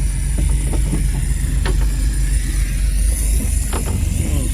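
Fishing boat's engine running, a steady low rumble, with a few light clicks on top.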